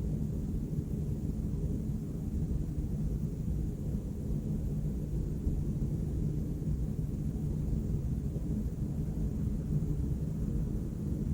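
Distant city traffic hum: a steady low rumble with no distinct events standing out.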